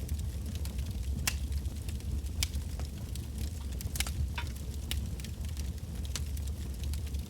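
Wood fire burning: irregular sharp crackles and pops from the burning logs over a steady low rumble of the flames.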